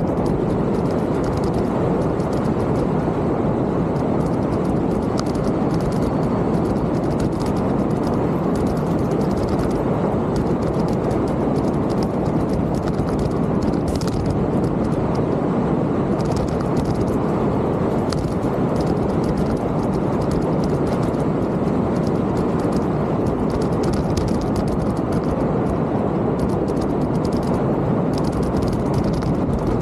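Mountain bike rolling along a trail: a steady rush of wind and tyre noise, with many small, irregular rattling clicks from the bike.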